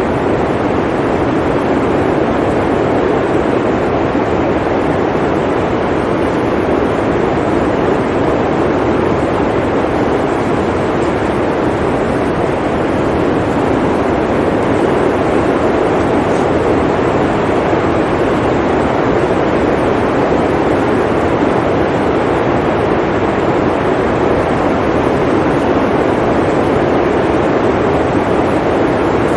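Blizzard wind blowing as a steady, loud, even rush with no let-up.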